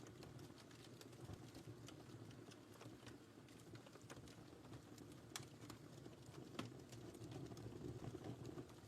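Wood fire crackling quietly: scattered sharp pops and clicks over a low steady rush of the flames.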